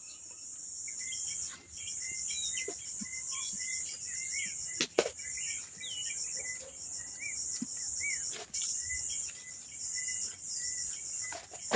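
A steady, high-pitched chorus of insects such as crickets or cicadas, with many short bird chirps and whistled notes scattered through it. A few sharp knocks or clicks are heard, loudest about five seconds in.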